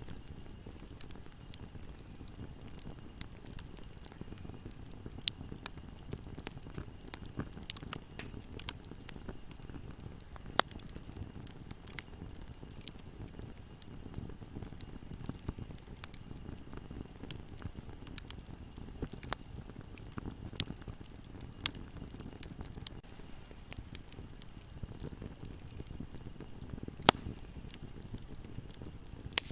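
Wood fire burning: a steady low rush of flames with scattered crackles and pops from the burning wood, a few of them sharper and louder.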